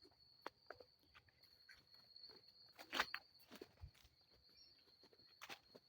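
Faint, irregular footsteps on the ground, a few soft steps and scuffs with one sharper step about three seconds in and a low thud just after. A faint steady high-pitched whine sits underneath.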